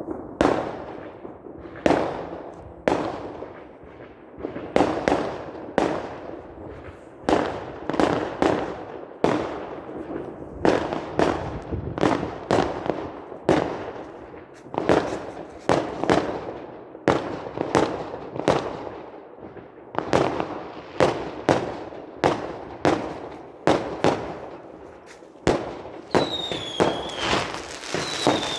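Fireworks going off in a steady barrage, a sharp bang every second or so, each with a short echoing tail. Near the end a few whistling rockets rise and fall among denser crackling.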